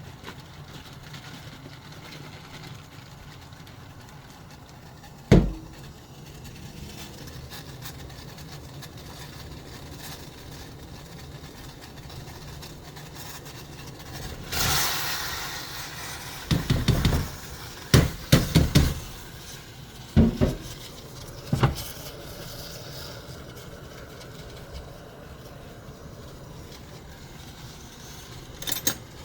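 Steady low hum of a cooking setup, broken by a sharp knock about five seconds in, a brief hiss midway, then a run of clattering knocks and clanks of cookware and utensils.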